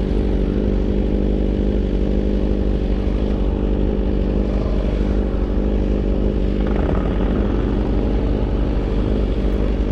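Motorcycle engine running at steady revs, a constant, even engine note with a heavy low rumble, shifting slightly about seven seconds in.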